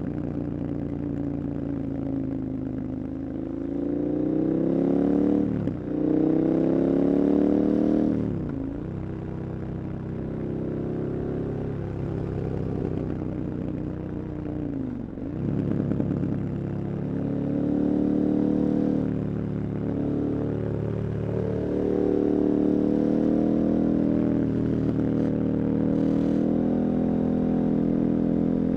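KTM 1290 Super Adventure's V-twin engine pulling hard, its pitch climbing and then dipping sharply at gear changes around 6 and 8 seconds in. It eases off for several seconds, dips again at about 15 seconds, then climbs and holds a steady high note.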